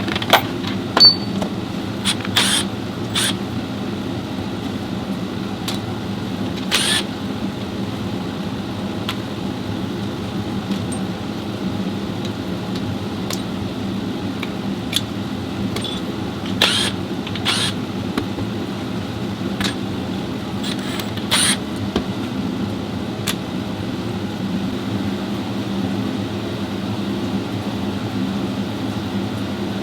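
Steady hum of a fan or ventilation unit, with scattered sharp clicks and clinks of metal tools as a CVT transmission is worked on.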